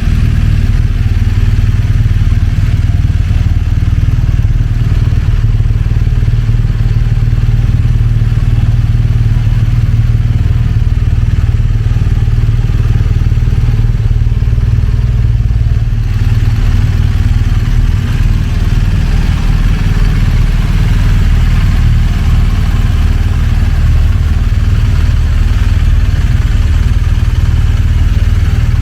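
BMW R1200GS flat-twin boxer engine running steadily through its exhaust at a constant speed, with no revving.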